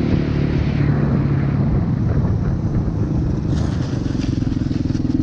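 Motorcycle engine running at fairly steady revs.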